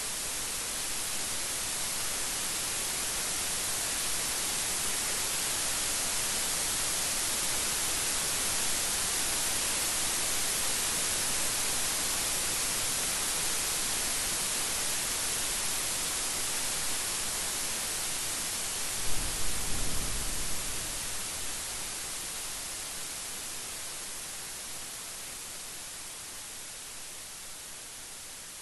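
Steady heavy rain hissing, swelling and then easing off, with a short rumble of thunder about two-thirds of the way through.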